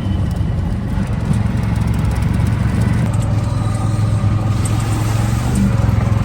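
A motor vehicle's engine running steadily, loud, with a low hum and a rushing noise over it.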